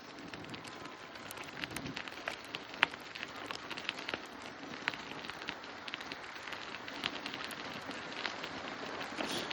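Bicycle ride noise: a steady rush of wind and rolling tyres with many irregular sharp crackling ticks, growing a little louder near the end.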